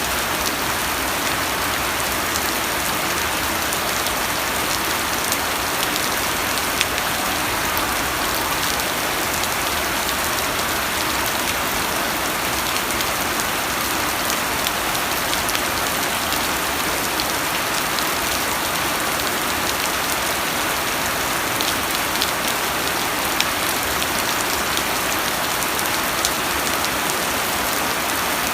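Steady rain falling on a surface: a dense even hiss with many small sharp drop ticks.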